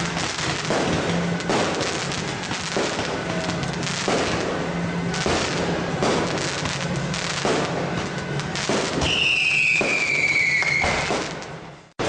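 Fireworks and firecrackers going off in a dense, continuous crackle, with a whistle falling in pitch near the end. The sound fades out abruptly just before the end.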